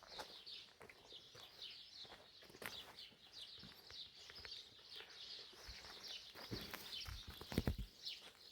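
Small birds chirping continuously, with a few dull knocks late on.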